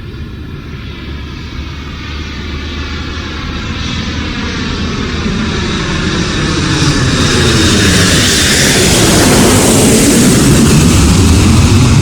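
Airplane coming in to land low overhead, its engine noise growing steadily louder over about eight seconds and then holding loud.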